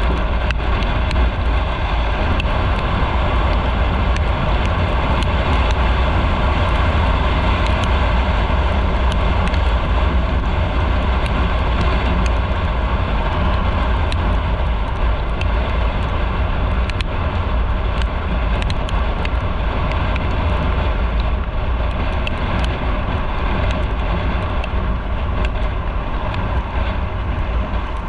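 Steady, loud noise of a motorcycle being ridden at a constant pace, with a heavy low rumble underneath.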